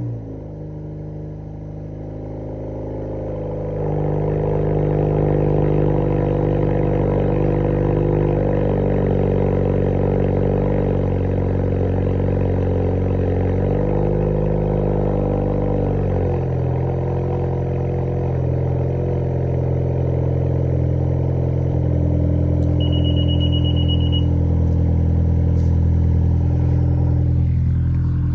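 2022 Acura TLX's 2.0-litre turbocharged four-cylinder, with its mufflers and resonators cut out and piped straight, running at a steady fast idle after a cold start. About halfway through, the idle settles lower. A short high beeping tone sounds about two-thirds of the way through.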